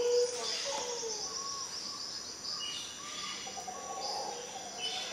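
Several birds chirping and calling: short whistled notes and quick runs of high chirps. A louder, lower sound dies away just at the start.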